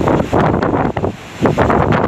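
Strong sea wind buffeting the microphone in irregular gusts, over the rush of rough waves around a ferry.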